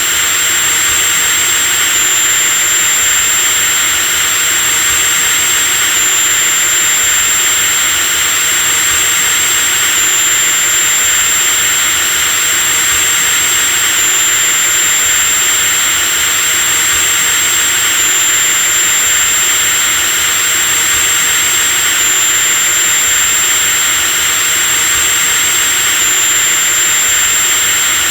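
Electric drill running continuously, a steady high whine over an even motor hiss.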